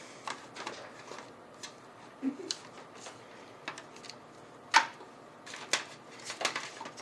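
Light handling noises and scattered small clicks of cables and plastic connectors being fitted inside a desktop computer case, with one sharper click about five seconds in.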